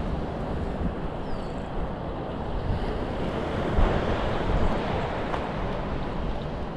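Wind rumbling on the microphone over a steady wash of surf.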